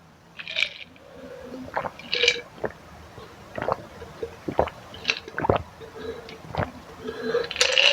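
Close-up mouth sounds of a person eating spicy instant noodles: scattered wet smacks and clicks, with two short hissing sounds early on and a louder breathy sound near the end.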